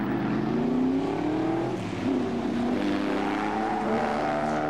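Historic sports racing cars accelerating past on track, engine notes climbing in pitch. The notes drop and the level dips briefly about two seconds in, then they climb again.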